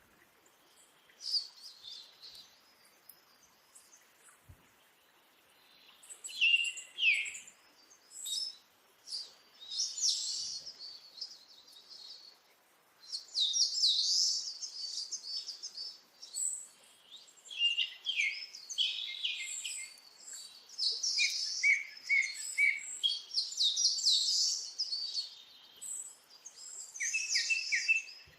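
Birds chirping and singing in many short bursts of high chirps and trills, sparse at first and busier from about six seconds in.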